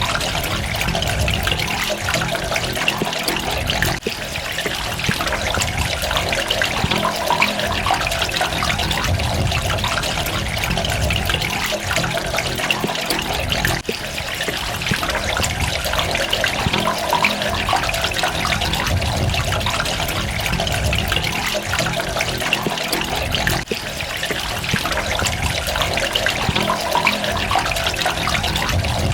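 Water running and splashing steadily, an even rushing with droplets, with a brief dip in level about every ten seconds.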